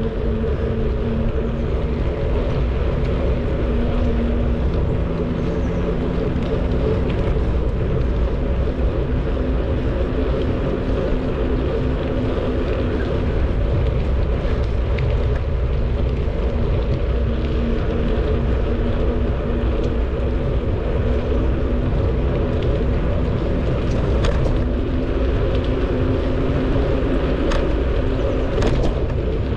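Wind rushing over the microphone of a camera riding along on a moving bicycle, a steady low rumble with a faint hum, and a few sharp clicks near the end.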